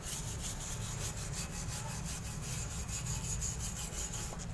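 Fine wire brush scrubbing lightly over a motorcycle exhaust pipe in quick, steady back-and-forth strokes, scouring off yellow heat stains loosened by a cleaning liquid.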